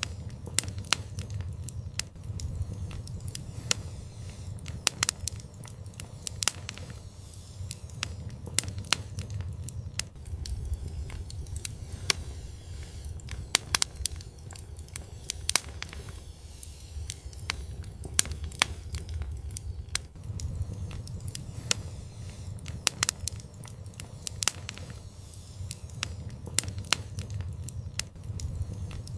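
Fire crackling in a fireplace: irregular sharp pops and snaps, some of them loud, over a low steady rumble of the flames.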